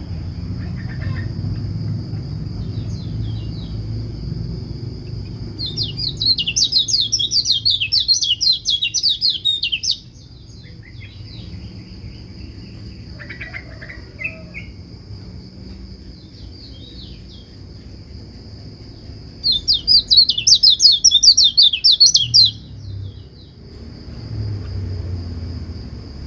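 White-eye (pleci, kecial kuning) singing: two loud bursts of fast, high twittering, the first about four seconds long and the second about three, over a steady high insect-like buzz.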